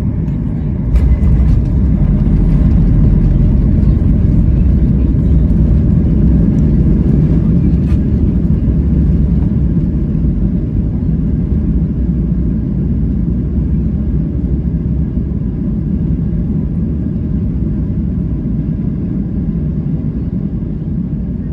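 Low, loud cabin rumble of a Boeing 737 MAX 8 rolling on the ground. It swells with a knock about a second in, then slowly eases off, as on the landing rollout.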